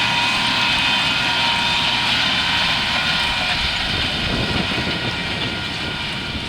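John Deere 8370RT tracked tractor working under load as it pulls a seed drill, a steady engine drone with a high whine running through it, easing off slightly near the end.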